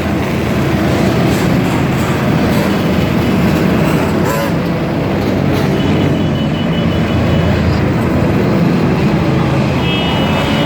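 Steady rumble of road traffic: vehicle engines and tyre noise, with no single event standing out.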